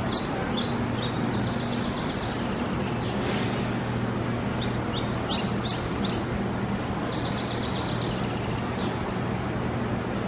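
Bird chirps and short trills, repeated in groups, over a steady background hum and noise.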